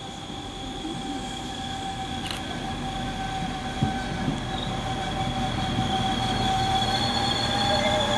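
Transport for Wales Class 197 diesel multiple unit pulling in to stop at the platform, getting steadily louder as it nears. Over its low running rumble there is a steady high-pitched squeal, with a few sharp clicks about four seconds in.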